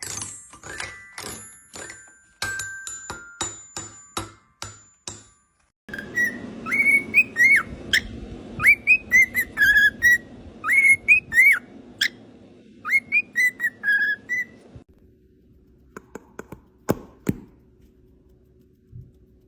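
A parrot whistling a tune: a phrase of short rising-and-falling whistled notes, repeated, that runs for about nine seconds. Before it come a few seconds of sharp taps with ringing tones; after it, a faint steady hum with a few clicks.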